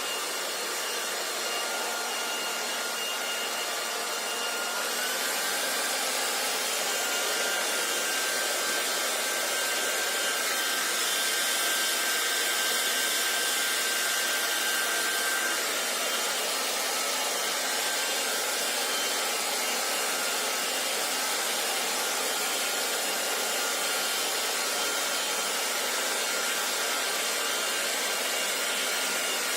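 Hair dryer blowing steadily: a rush of air with a thin motor whine running through it. About five seconds in, the whine steps up slightly in pitch and the airflow grows brighter and a little louder.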